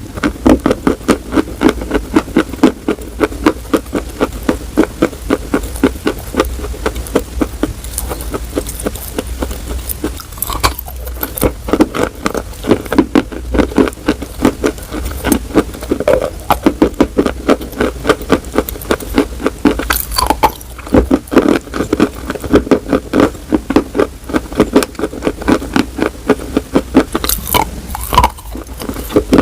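Close-miked chewing of crunchy food, with loud, rapid crunches a few times a second throughout.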